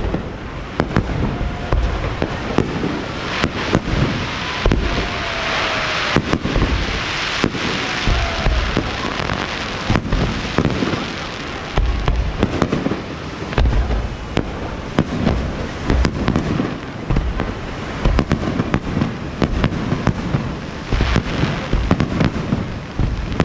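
Fireworks display: a continuous run of booming shell bursts, with stretches of dense crackling.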